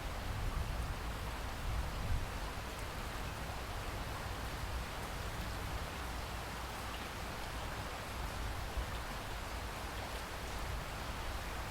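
Steady rainfall in a rainforest, an even hiss of rain with faint scattered drops and a low rumble underneath.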